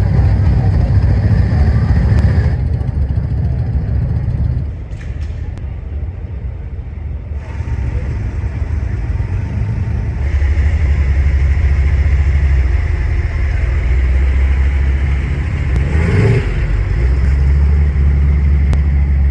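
Classic car engines running with a deep, steady rumble, changing abruptly every few seconds.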